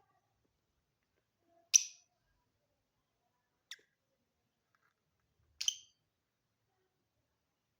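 Lovebirds giving short, sharp chirps: three calls a couple of seconds apart, the first the loudest and the last a quick double.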